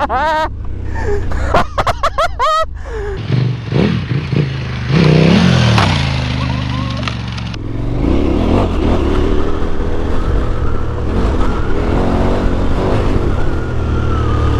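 KTM 1290 Super Adventure S's V-twin engine under off-road riding, the revs rising and falling in the first half, then running steadily.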